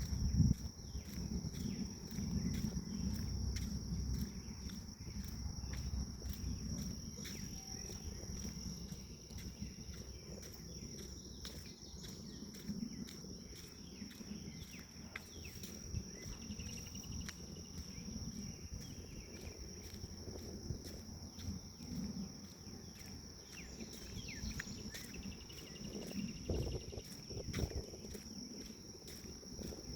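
Insects singing a steady, high-pitched drone, over the soft low thuds and rustle of footsteps on a forest path.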